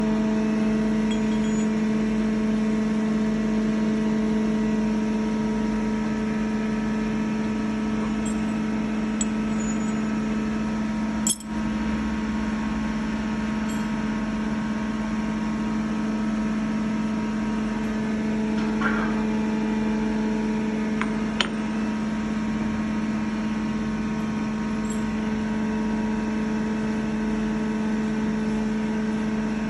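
CNC machine running while machining a part: a steady, even hum with a constant pitch, broken by a sharp click about eleven seconds in and another about twenty-one seconds in.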